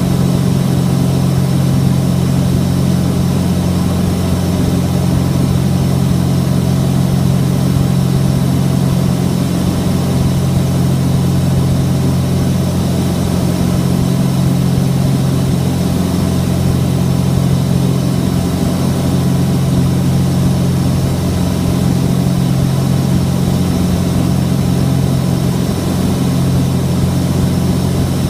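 Steady drone of a Cessna 421's twin geared, turbocharged six-cylinder piston engines holding constant power. The tone does not change.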